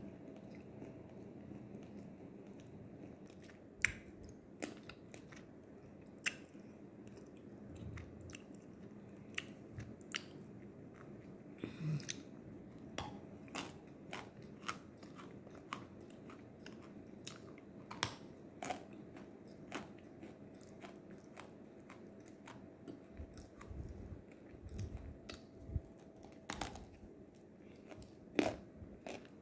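A person biting and chewing nzu, the edible clay, close to the microphone: crisp crunches come irregularly, roughly one a second, with a few louder bites among them.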